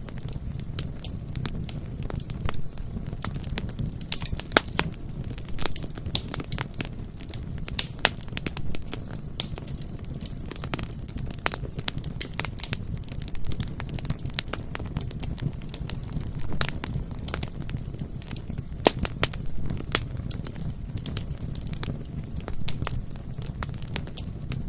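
Bonfire burning, with irregular sharp crackles and pops of the wood over a steady low rumble.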